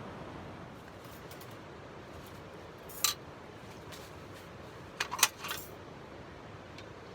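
Light metallic clinks of small hard objects being handled: one about three seconds in, then a quick cluster of three about two seconds later, over a steady faint hiss.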